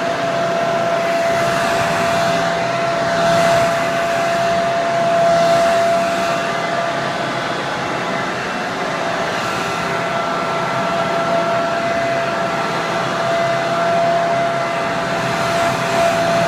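Hair dryer running continuously: a steady rush of air with a constant motor whine, the airflow swelling slightly every few seconds.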